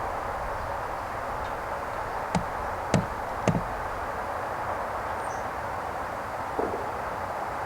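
Steady outdoor background hiss with three light knocks about half a second apart, a little past the middle, and a fainter one near the end.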